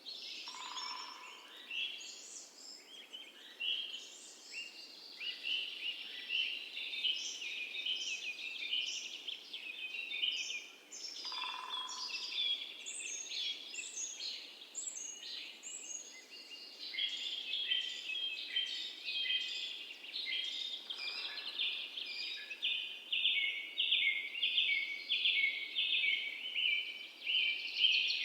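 Many birds chirping in a dense chorus of quick, overlapping calls, with a lower single note now and then.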